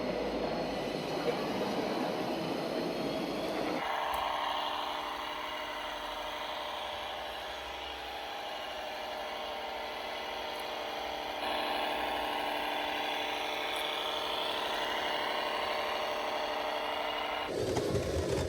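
Radio-controlled scale model trucks and tractors running, their small electric drive motors and gearing giving a steady whine. The sound changes abruptly about four seconds in and again near the end.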